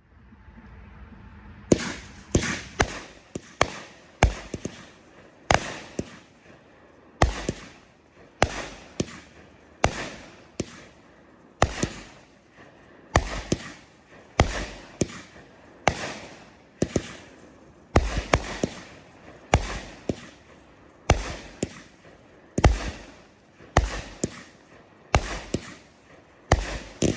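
A 200-gram consumer firework cake firing its shots in a rapid, uneven series of about twenty sharp booms, each followed by a fading tail. The first shot comes about two seconds in.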